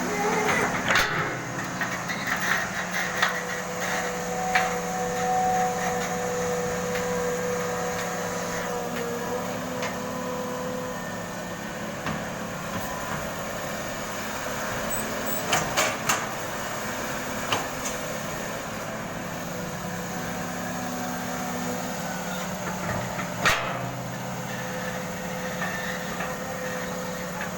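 Caterpillar 320 excavator's diesel engine running steadily with a whine that comes and goes, and several sharp metallic knocks.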